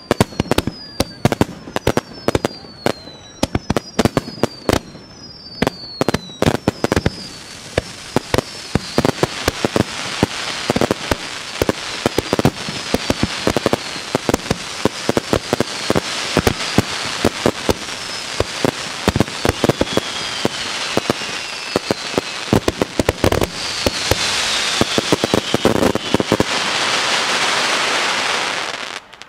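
Aerial firework shells by Ikebun going off in quick succession: many sharp bangs, with short falling whistles over the first several seconds. A crackle builds up under them and swells into a dense, loud crackling of glitter shells from about 24 seconds in, then stops abruptly near the end.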